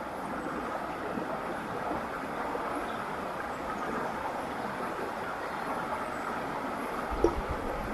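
River water flowing steadily, with a single short click near the end.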